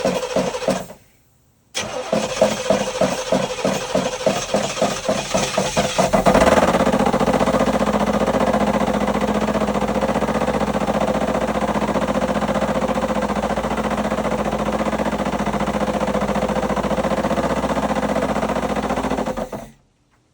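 GM 305 V8 in a 1987 Firebird Trans Am, cranked on the starter in a quick, even rhythm, halting briefly and cranking again, then catching about six seconds in and running steadily until it stops abruptly near the end. This is a start-up after ten years of sitting, and the owner hears a knocking noise in the engine that he can't identify.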